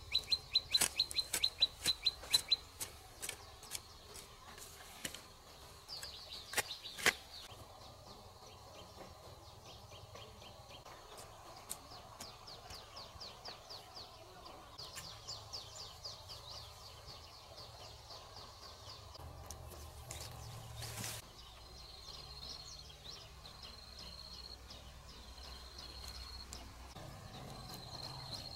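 Small birds chirping in quick series of high notes, with a couple of sharp knocks along the way.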